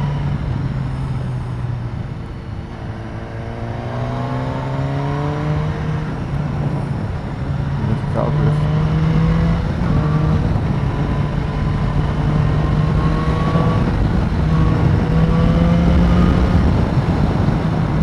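BMW S1000R's inline-four engine pulling uphill under load. Its pitch rises, drops briefly about eight seconds in, then climbs steadily.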